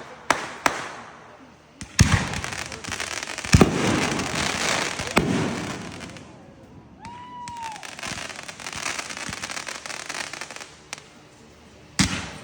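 Fireworks going off: a series of sharp bangs, each trailed by crackling, the loudest about three and a half seconds in and another near the end. A short arched tone sounds a little past the middle, followed by lighter crackle.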